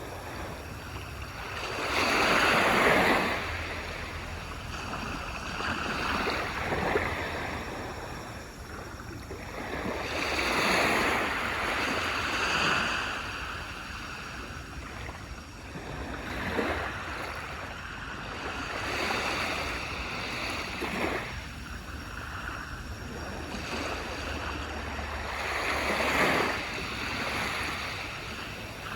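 Waves breaking and washing up a beach, each one swelling into a rush of surf and drawing back, coming in one after another every few seconds with the loudest about two seconds in, around ten to thirteen seconds in, and near the end.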